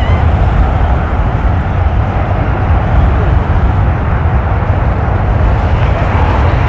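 Strong wind buffeting the microphone: a loud, continuous low rumble with a hiss above it, rising and falling in gusts.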